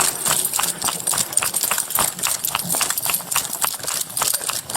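Running footsteps on hard ground at about three strides a second, as an officer chases a suspect on foot.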